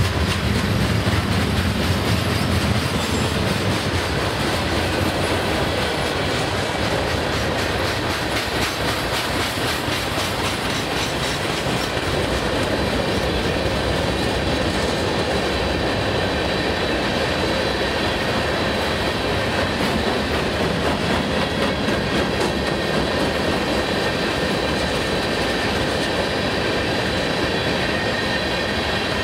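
Freight cars of a Canadian National mixed freight train rolling past, a steady rumble of steel wheels on rail with clickety-clack over the rail joints. A thin high wheel squeal rides over it in the second half.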